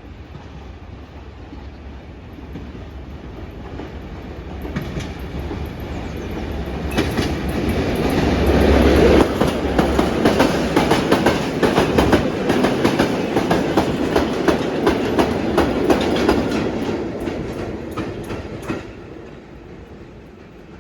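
A train passing close by: its rumble builds, peaks with a low engine drone as the front goes by, then comes a long run of wheels clicking over the rail joints before the sound fades away near the end.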